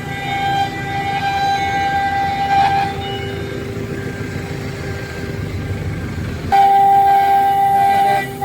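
5-axis CNC router spindle running at high speed with a steady high-pitched whine over the rumble of the cutting. The sound suddenly gets louder about six and a half seconds in.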